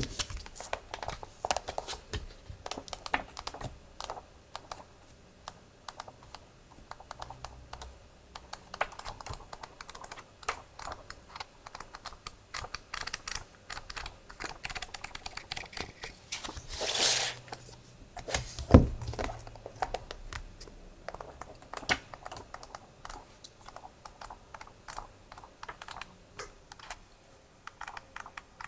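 Close, quiet handling of stationery: a dense run of small taps, clicks and light rustles as items and packaging are picked up and set down. About two-thirds of the way through there is a longer swishing rustle, then a single soft thump.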